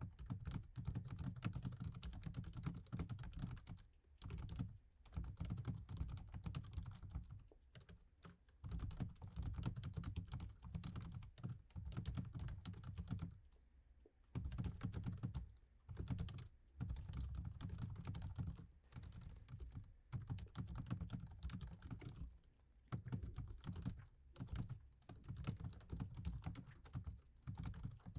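Fast typing on a laptop keyboard: continuous runs of key clicks broken by brief pauses every few seconds, with a soft thud under each keystroke.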